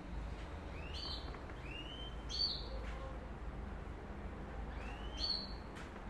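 A bird calling three times, each call a quick rising whistle that levels off into a high held note.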